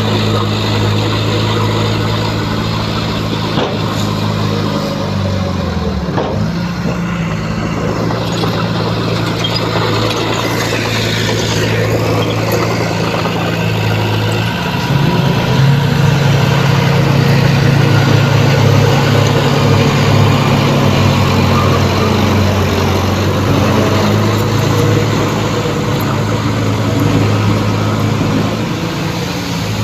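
Heavy diesel engine of earthmoving machinery running. Its pitch drops about five seconds in, then rises and gets louder about halfway through as it works harder.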